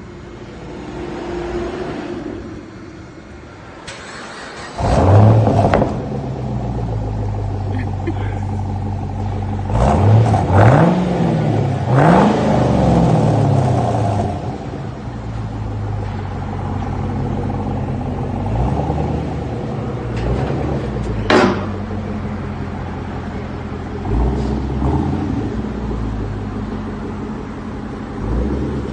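Chevrolet Camaro 2SS V8 with its mufflers deleted, starting up about five seconds in with a loud flare, then idling with a deep steady note and revved a few times, the pitch rising and falling. The exhaust sounds more aggressive than stock, with a tone to it, though not as loud as hoped.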